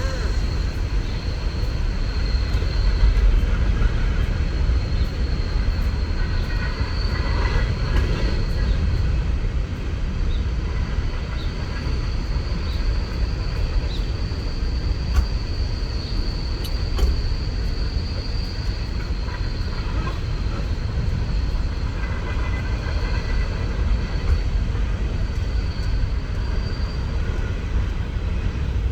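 CSX coal train's freight cars rolling past on the rails, a steady rumble with faint clicks and a thin high squeal that comes and goes.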